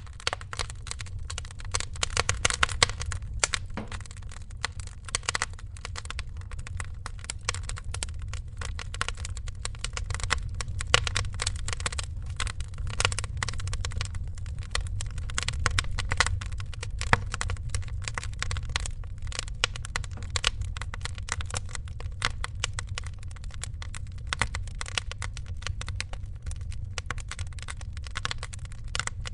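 Wood fire crackling in a fireplace: dense, irregular snaps and pops, a few louder than the rest, over a steady low rumble.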